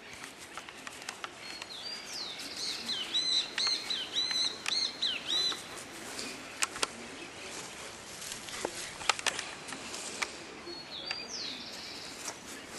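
Bird calling outdoors: a run of quick repeated high chirps for a few seconds, then one shorter call near the end, with a few sharp clicks and knocks in between.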